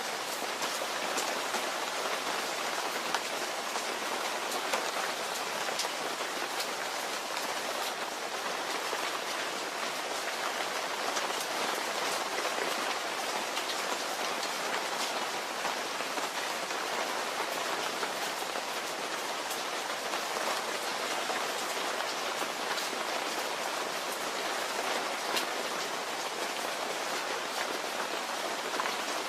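Steady rain falling and pattering on a surface, with many individual drops ticking through an even rushing hiss.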